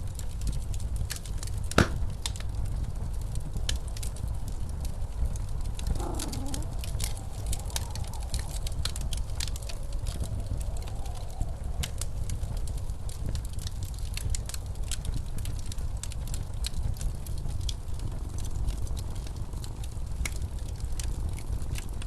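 Fireplace crackling, with scattered sharp pops and one loud pop near two seconds in, over the steady low rush of blizzard wind. A faint wavering howl rises in the wind from about six to eleven seconds.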